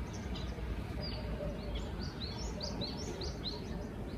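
Songbird chirping: a quick run of short, high, falling chirps, about four a second, from about a second and a half in until near the end, over a steady low rumble of outdoor background noise.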